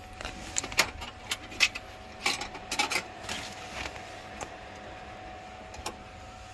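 A string of sharp clicks and clinks of small metal tools and parts being handled, thick for the first few seconds and then sparse, over a steady hum.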